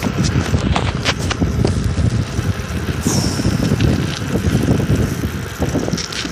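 Bicycle being ridden over a rough trail: a steady low rumble with scattered sharp clicks and rattles.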